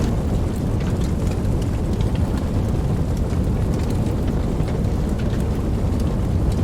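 Steady rain, with a deep low rumble underneath and scattered sharp ticks of individual drops striking.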